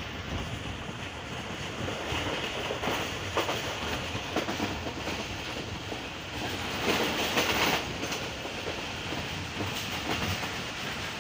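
Passenger train running at speed, heard from its carriage window: steady wheel-and-rail noise and rushing air. About seven seconds in it grows louder for a second or so as a diesel locomotive hauling oil tank wagons passes the other way on the adjacent track.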